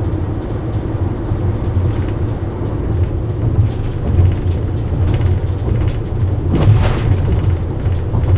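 Steady low road and engine rumble inside a car cruising on a freeway, with a brief louder rush of noise about two-thirds of the way through.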